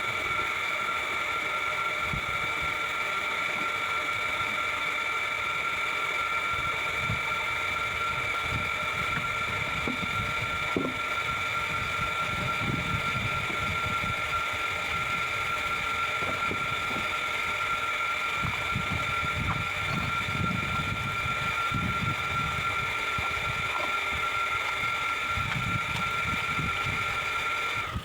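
Small electric pressure-washer pump motor running steadily with a high whine, with spray noise underneath, while the condenser coil is washed; it cuts off suddenly near the end.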